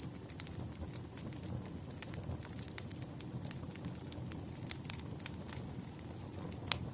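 Wood fire crackling and popping: a steady low rumble of burning logs with irregular sharp pops, the loudest near the end.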